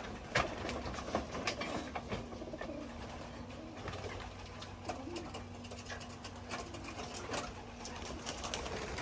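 Racing pigeons cooing, with scattered sharp clicks throughout.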